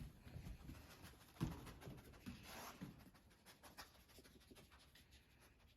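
Faint footsteps and scuffs on a hard floor, scattered light taps with a louder knock about a second and a half in, as the search moves through the room.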